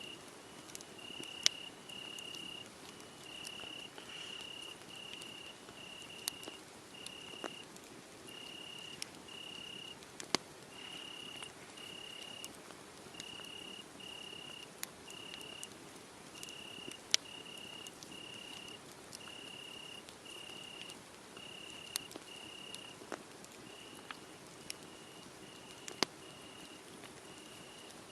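A cricket chirping steadily in short, evenly spaced pulses, about one and a half a second. Sharp crackles and pops from a burning wood fire come now and then, the loudest sounds in the mix.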